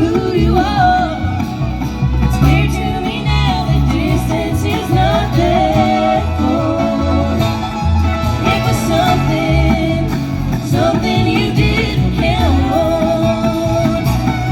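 Bluegrass band playing a song live, with guitar and banjo over a steady bass pulse and a wavering melody line on top.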